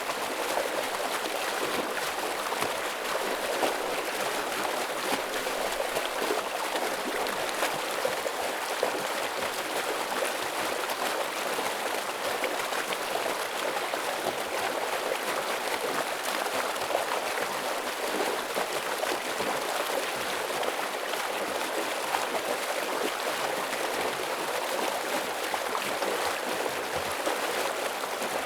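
A forest stream flowing heavily: a steady rush of water over rocks, even and unbroken throughout.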